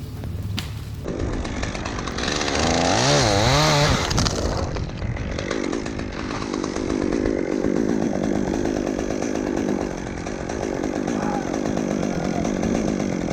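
Chainsaw running and cutting wood.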